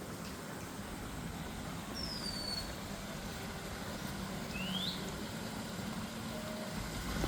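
Steady outdoor background noise with a low engine hum that grows from about halfway. Two short bird whistles sound over it, a falling one about two seconds in and a rising one near five seconds.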